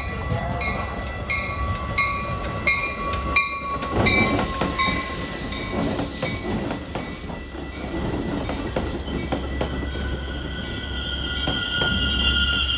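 Metra bi-level commuter train pulling in and passing close, its steel wheels rumbling and clattering over the rails. A bell strikes about one and a half times a second until about four seconds in. A steady high wheel squeal sets in near the end as the train slows.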